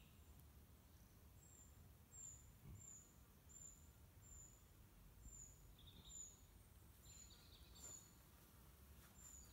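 Near silence outdoors, with a faint low background rumble and a small bird's short, high, slightly falling calls repeated about every 0.7 seconds from about a second and a half in.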